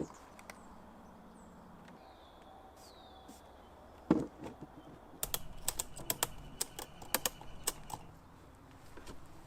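Ratchet strap being tightened around a wooden hive box: a single knock, then a quick run of sharp ratchet clicks lasting about three seconds.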